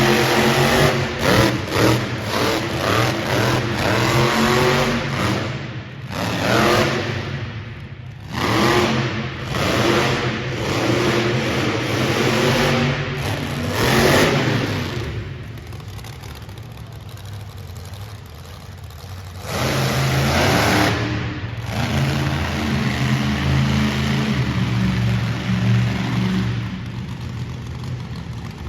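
Monster truck engine revving hard in repeated bursts, its pitch rising and falling through a qualifying run. It drops to a lower, quieter run for a few seconds past the middle, then picks up again.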